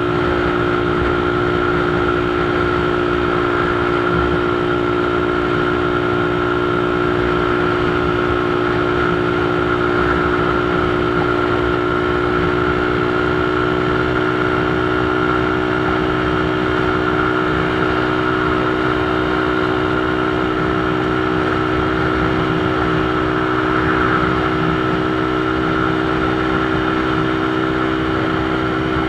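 Motorcycle engine running at a steady, unchanging speed, with a constant drone and a continuous rush of noise beneath it, as when cruising.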